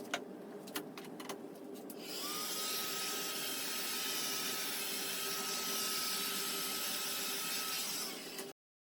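A few light clicks, then about two seconds in a drill motor starts with a brief rising whine. It runs steadily for about six seconds and cuts off suddenly, turning to free a stuck keyless chuck.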